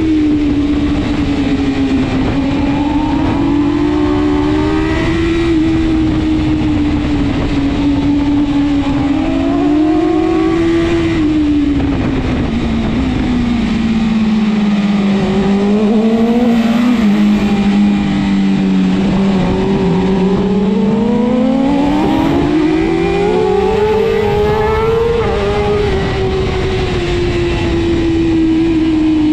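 BMW S1000RR inline-four superbike engine at race pace, its note rising and falling with throttle and gear changes through the corners. The note drops lowest around the middle, then climbs steadily again.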